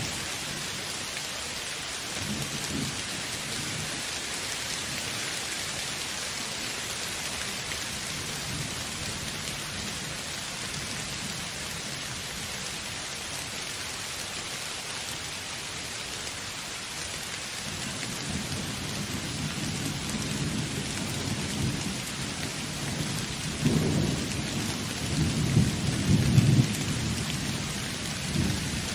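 Steady heavy rain falling, with rolling thunder building up from about two-thirds of the way in and rumbling loudest near the end.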